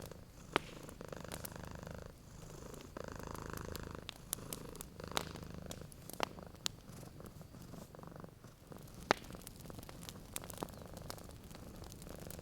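A cat purring steadily, the purr swelling and easing every second or two with its breathing, over the scattered sharp pops and crackles of a wood fire; the loudest pop comes about nine seconds in.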